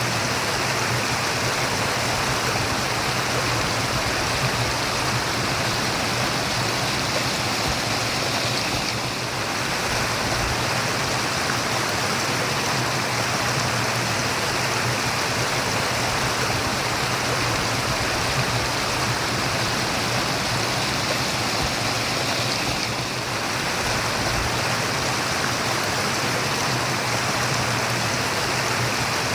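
Running water murmuring steadily, an even rushing sound that eases very slightly twice.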